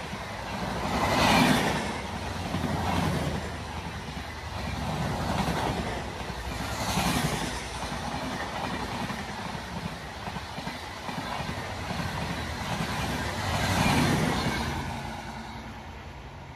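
Indian Railways express train's passenger coaches rushing past at speed close by, the wheels clattering in loud swells every second or two as the bogies go by. The sound dies away near the end as the last coach draws off.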